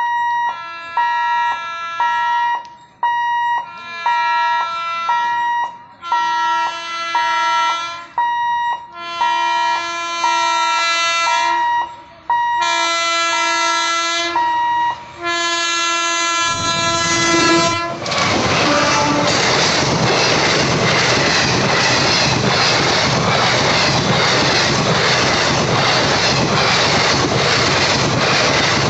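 WAP-5 electric locomotive's horn sounding in a series of about six blasts, each a second or so long, the last ones stronger as the train closes in. About seventeen seconds in, the express reaches the crossing and the loud, even rush of its coaches and wheels passing at speed takes over.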